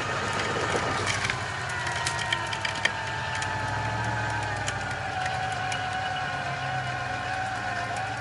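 12,000 lb electric winch motor whining under load, its pitch slowly dropping as it strains to pull the truck, with a few sharp ticks about one to three seconds in.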